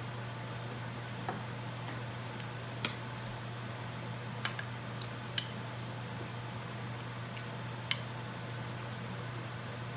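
A spoon clicking a handful of times against an ice cream container during eating, sharp separate clicks with the loudest about eight seconds in, over a steady low hum.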